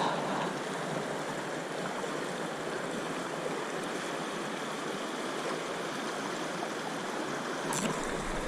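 Steady rush of flowing river water, with one brief click a little before the end.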